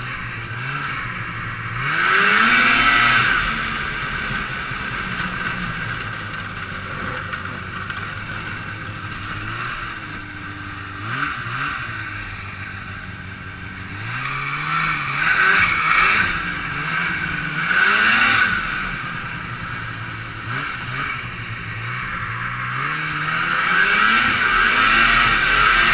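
Two-stroke Rotax snowmobile engine revving up and easing off again and again, its pitch climbing and falling about six times as the sled is ridden hard, heard from the rider's helmet.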